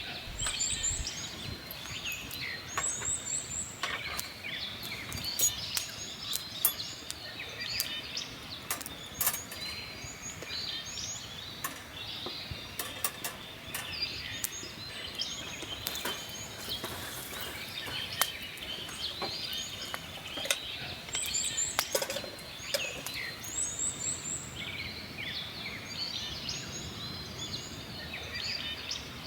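Several birds chirping and calling over one another, with scattered sharp crackles and pops from a wood campfire.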